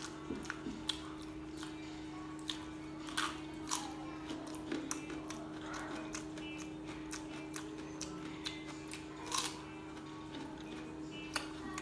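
Eating sounds of a man chewing rice and chicken eaten by hand: irregular wet mouth clicks and smacks, loudest a little after three seconds and again about nine seconds in, over a steady low hum.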